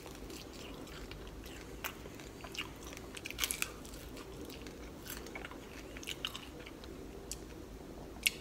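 Close-up biting and chewing of an air-fried balsamic chicken wing: quiet mouth sounds broken by scattered small crunches and clicks, busiest about halfway through, with a sharp crunch near the end.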